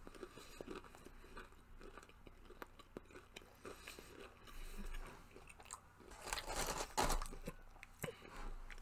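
A person chewing and biting fried fast food, with small crunches and mouth clicks, growing louder for a moment about six seconds in.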